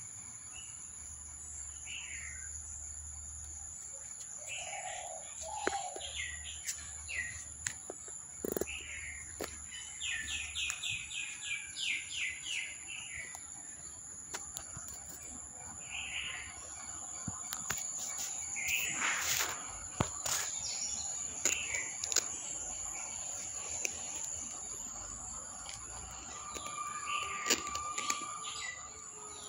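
Garden birds chirping and calling in short scattered phrases, with a quick run of evenly repeated notes about ten seconds in.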